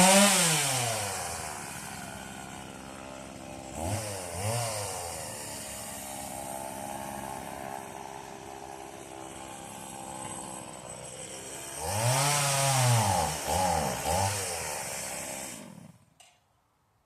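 Stihl two-stroke chainsaw engine coming down from high revs to idle. It idles with a few short throttle blips and one longer rev, then stops about a second before the end.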